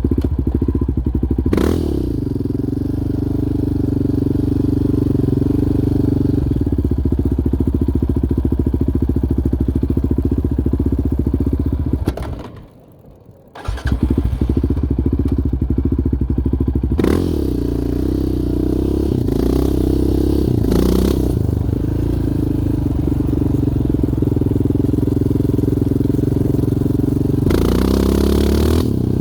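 Yamaha Raptor 700R sport quad's single-cylinder four-stroke engine running while riding, its pitch rising and falling with the throttle and gear changes. The engine sound drops out briefly about thirteen seconds in.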